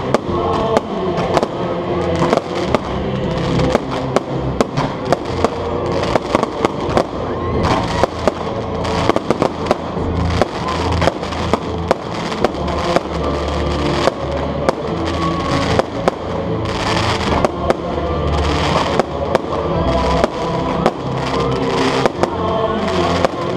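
Aerial fireworks display: a rapid, irregular run of sharp firework bangs and crackles, over music playing underneath.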